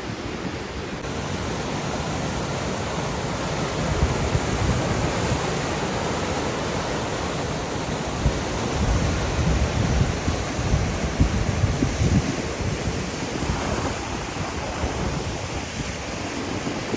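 Wind buffeting the microphone: an irregular low rumble in gusts over a steady rushing hiss.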